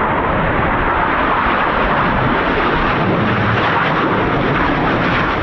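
BAE Hawk T1 jets passing overhead, a loud steady jet engine noise, with wind buffeting the microphone underneath.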